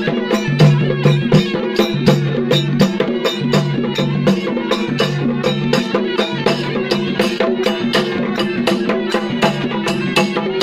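Traditional folk music: fast, steady drum strokes, about three to four a second, under a sustained melodic line.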